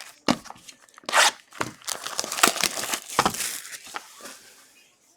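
Plastic wrapping being torn and crinkled off sealed trading card boxes: irregular ripping and rustling, loudest about a second in and again between two and three and a half seconds in, dying away near the end.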